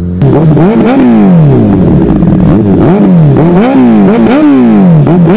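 Supersport motorcycle engine revved again and again with quick throttle blips: each time the pitch shoots up and then falls back more slowly, about one or two blips a second.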